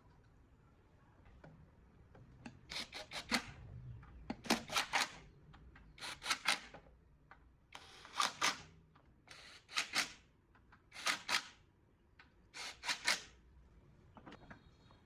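An abrasive hand tool rubbing on a metal part in rasping strokes: seven bursts of three or four quick strokes each, about one and a half seconds apart.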